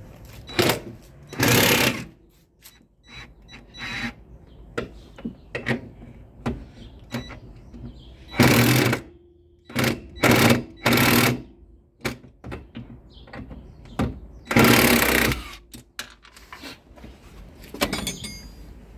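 Power wrench with a 13 mm socket running in short hammering bursts, about five of them, the longest near the start and about three quarters of the way in, as it runs out the upper mounting bolts of a rear shock absorber.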